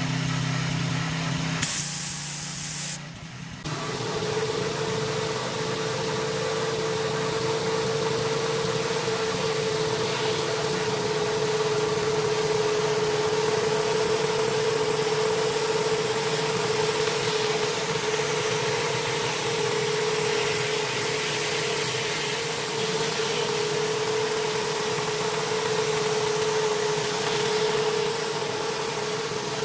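Gas-powered pressure washer engine running steadily while water sprays under high pressure as a steady hiss. The sound changes abruptly and dips briefly around two to three seconds in, then settles into a steady hum with spray.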